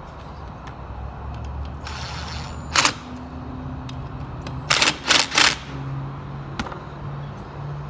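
Sharp knocks or clacks: a loud one about three seconds in, then three in quick succession near the middle, over a steady low hum.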